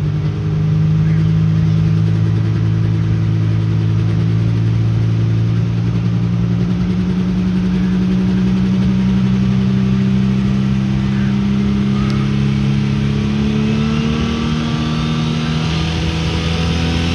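Pulling truck's engine running hard under load as it pulls the sled, its pitch climbing slowly and steadily. Near the end a high whine rises sharply over it.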